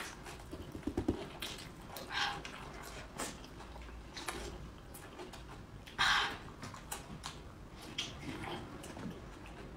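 A person biting and chewing raw red chili close to the microphone, with scattered crunches and mouth smacks. The loudest comes about six seconds in.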